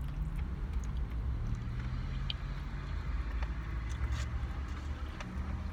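Steady low rumble of a motor vehicle, with a faint hum and a few small clicks.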